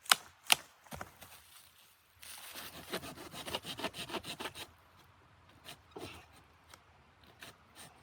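Two sharp knocks, then about two seconds of rapid rasping strokes on wood, then a few light clicks.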